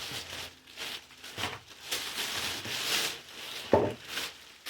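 A small shopping bag rustling and crinkling as items are rummaged for and pulled out, with irregular rubbing and handling noises and a short louder knock near the end.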